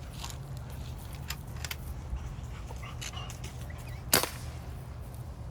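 A single air rifle shot, a sharp crack about four seconds in, with a few fainter clicks before it over a low steady rumble.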